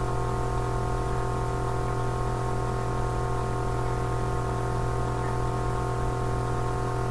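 A steady, unchanging hum made of several held tones.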